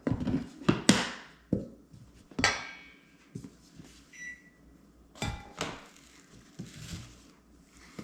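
Kitchen clatter: a series of sharp knocks and clanks of dishes and utensils, some ringing briefly, with a short high tone about four seconds in.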